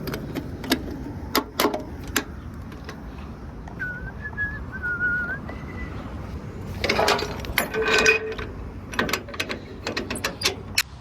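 Ratchet straps being cranked tight on a truck load: sharp clicks, scattered at first and then in quick clusters in the second half. A few whistled notes come about four to six seconds in.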